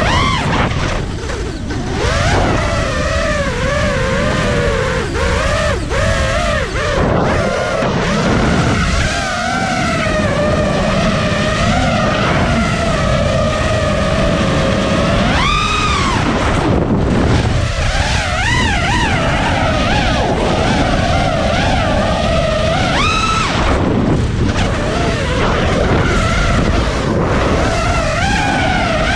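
FPV racing quadcopter's brushless motors whining and changing pitch constantly with the throttle, with sharp rises in pitch on hard punches about halfway through and again near three quarters of the way, over wind and rushing air noise.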